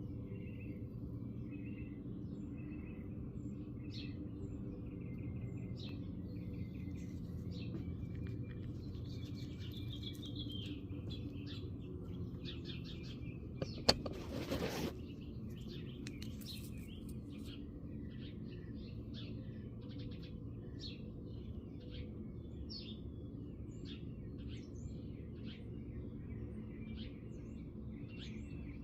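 Small birds chirping and calling again and again over a steady low hum. About halfway through there is one sharp click, followed by about a second of hissing noise.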